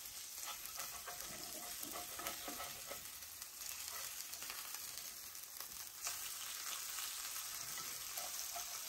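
Hamburger patties sizzling in hot oil in a cast-iron skillet, with a metal spatula scraping under them as they are turned; the patties are sticking to the pan. The sizzle gets a little louder about six seconds in.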